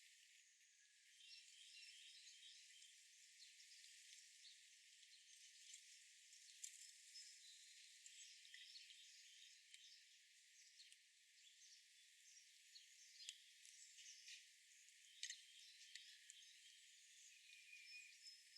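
Faint outdoor ambience of small birds chirping and twittering, with a few sharp clicks, over a thin hiss with no low end.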